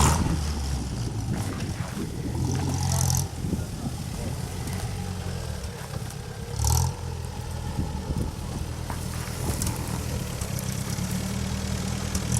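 UAZ off-roader's engine running, its pitch rising and falling as it is revved, with a brief louder rev about seven seconds in.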